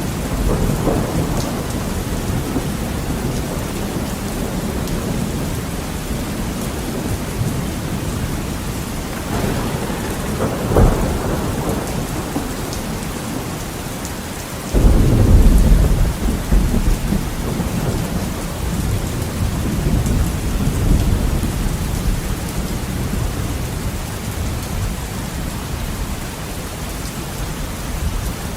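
Heavy rain falling on a window, with thunder rumbling throughout. There is a short sharp crack a little before the middle, and a loud thunderclap just after the middle that rolls on for several seconds.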